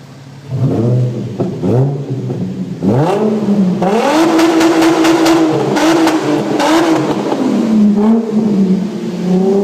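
Infiniti FX35's 3.5-litre V6 through an aftermarket Borla exhaust, revved from idle: a few short blips in the first two seconds, then held at high revs for several seconds with a few brief dips.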